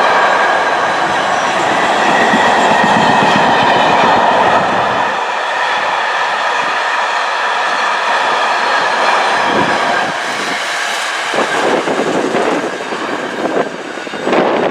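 Train running past on the track: a steady loud rumble with faint whining tones, then, from about two-thirds of the way through, wheels clicking and knocking over rail joints.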